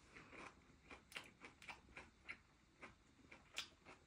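Near silence, with faint scattered crunches and clicks of fried chicken being chewed, roughly every half second.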